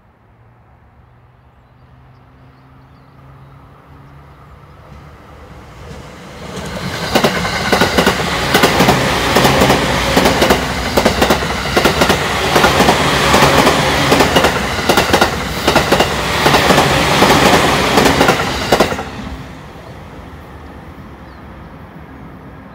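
JR East suburban electric multiple-unit train approaching, passing close at speed and receding, its wheels beating a steady clickety-clack over the rail joints. It builds up over the first few seconds, is loudest for about twelve seconds, then fades.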